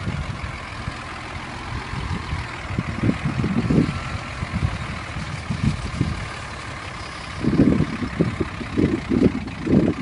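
Large delivery truck's engine running, with wind buffeting the microphone in irregular low gusts that grow heavier near the end.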